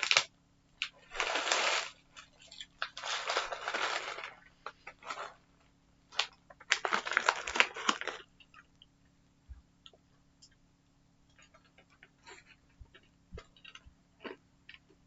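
Plastic sweet packet rustled and crinkled in three bursts of about a second each, followed by faint scattered clicks and taps.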